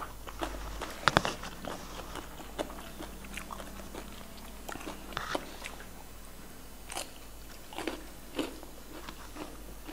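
Close-miked eating: chewing and crunching of raw papaya salad and fresh greens, with crisp bites and mouth clicks scattered throughout, the sharpest crunch about a second in.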